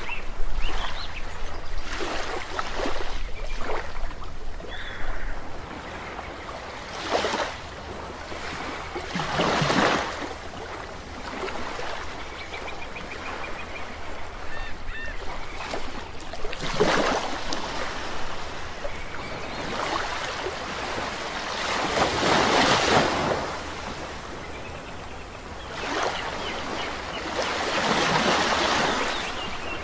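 Sea waves breaking and washing up a beach, a surge of surf every few seconds that swells and fades. A few faint bird chirps come through now and then.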